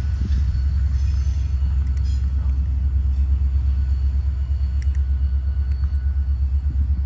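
Freight train rolling past close by: a loud, steady low rumble of the train in motion.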